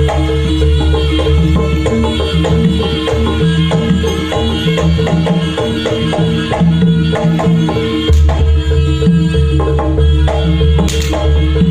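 Jaranan ensemble playing an instrumental passage: hand drums beat a fast, dense rhythm over sustained ringing tones and a heavy bass. It is loud throughout.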